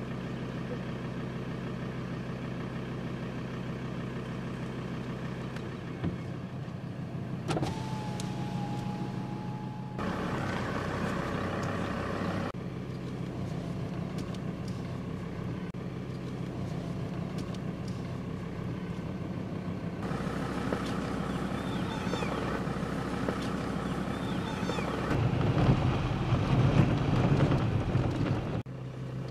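Engine of a game-drive vehicle idling with a steady low hum, the sound shifting at several cuts and running louder for a few seconds near the end. About a quarter of the way in there is a short, steady whine lasting a couple of seconds.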